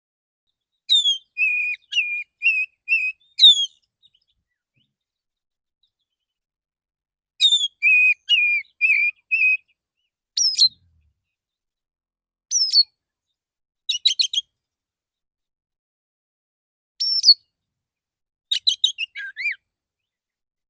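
Male oriental magpie-robin (kacer) singing a relaxed lure song. Two phrases of about two seconds each, made of repeated whistled notes and downward sweeps, come about a second in and again at about seven seconds. These are followed by shorter whistled calls and quick note clusters separated by pauses.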